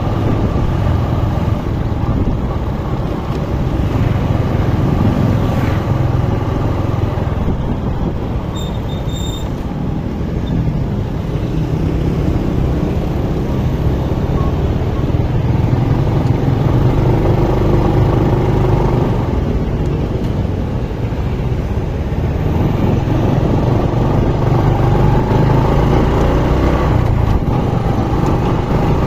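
A motor vehicle travelling along a road: steady engine and road noise, the engine's pitch rising and falling as it goes.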